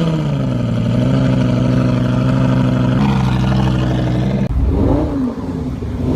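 A sports car engine pulls hard, its note rising at the start and then holding at high revs for about four and a half seconds. After a break, the revs swing up and down.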